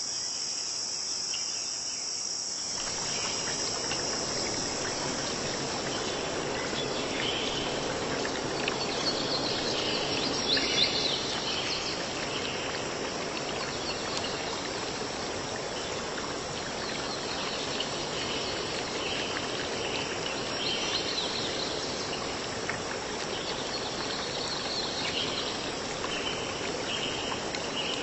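Crickets chirping in a steady high-pitched trill, with shorter repeated chirps coming and going. A steady rushing noise joins about three seconds in.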